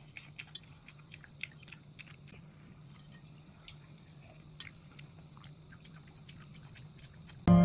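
Close-up chewing of kimchi fried rice: a run of faint, irregular wet mouth clicks and small crunches. Music starts suddenly right at the end.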